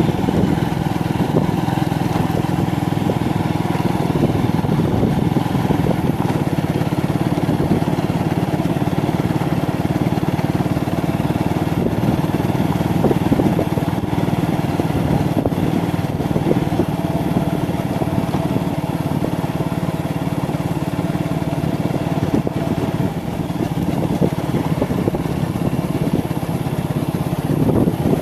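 Motorcycle engine running steadily while riding, its pitch holding level.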